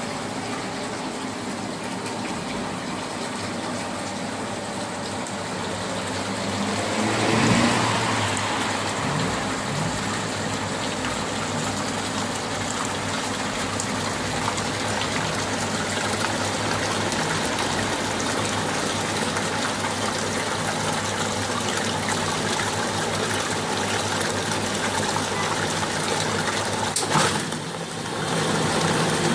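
Pump running with water gushing steadily, as in a DPF cleaning machine flushing a particulate filter. The flow swells about a quarter of the way in, and there is a sharp knock near the end.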